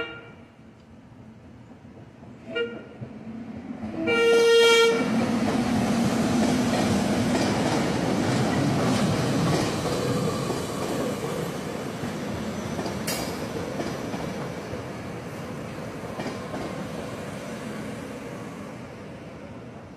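SEPTA Regional Rail commuter train sounding its horn: a short toot about two and a half seconds in, then a louder blast about four seconds in. The train then passes close by, wheels clattering on the rails, and the rumble slowly fades.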